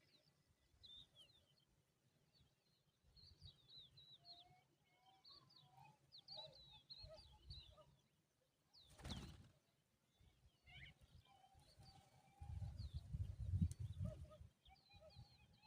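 Small birds chirping faintly, with many short, scattered chirps and some lower calls. A brief whoosh comes about nine seconds in, and a low rumble follows about three seconds later.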